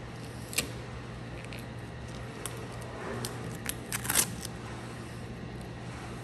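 Vinyl wrap film being handled and worked by hand: scattered sharp clicks and crackles, with a brief scratchy rustle and the loudest crackling about four seconds in. A steady low hum runs underneath.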